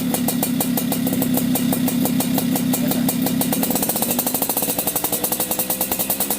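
Small two-stroke motorcycle engine fitted with an aftermarket racing exhaust, running steadily at low revs with an even pulsing note that settles slightly lower about four seconds in.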